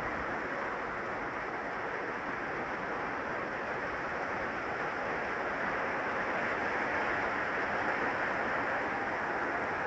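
Steady rain falling, a continuous even hiss that grows a little louder about six seconds in.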